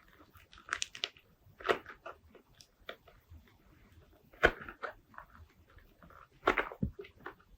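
Slime being squished and pressed by hand, making irregular sticky clicks and wet pops. The loudest pops come about halfway through and again near the end.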